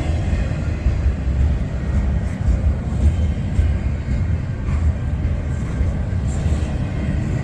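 Cars of an intermodal freight train rolling slowly past, a steady low rumble of wheels on the rails as the train slows to enter a terminal.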